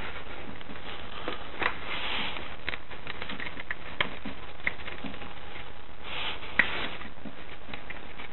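Scattered light clicks and taps of hand tools and metal parts being handled during scooter engine removal, over a steady hiss; the sharpest click comes about six and a half seconds in.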